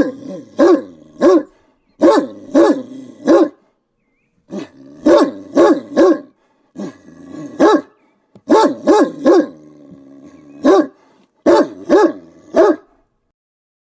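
A dog barking loudly in quick runs of three or four barks, with short silent pauses between the runs.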